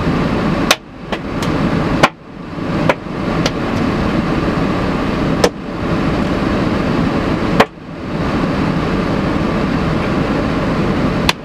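Golf-ball-sized hail falling, with single loud knocks of stones striking hard surfaces at irregular intervals, about nine in all, over a steady rush of rain and hail.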